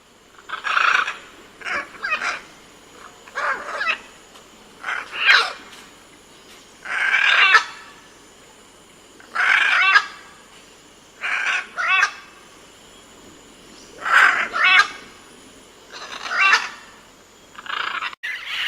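An animal calling over and over, about ten short wavering cries spaced a second or two apart.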